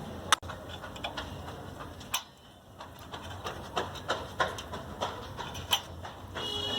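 Irregular clicks and knocks of tools and parts being handled during hand reassembly of a small generator engine, over a steady low hum.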